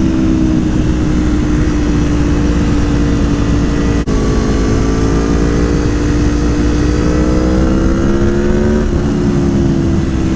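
Aprilia Tuono V4 1100 Factory's V4 engine pulling while riding, under a heavy rush of wind noise. After a momentary break in the sound about four seconds in, the engine note climbs steadily, then falls away near the end.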